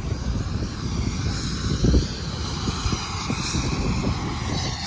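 Wind buffeting the microphone in uneven low gusts, strongest about two seconds in, over the faint steady sound of aircraft engines at the airport.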